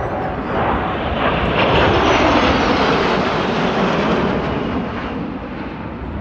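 U.S. Air Force Thunderbirds F-16 fighter jets making a formation pass: loud jet engine noise swells to a peak about two seconds in, then slowly fades as they fly away.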